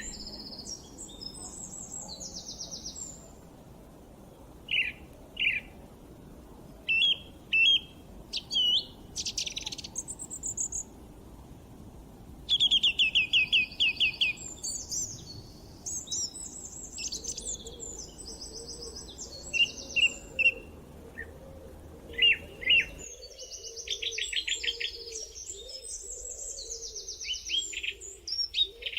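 Several songbirds singing and calling together: fast trills of quickly repeated notes, short chirps and gliding whistles, overlapping one another. A faint background hiss runs underneath and cuts off abruptly about 23 seconds in, as at an edit in the recording.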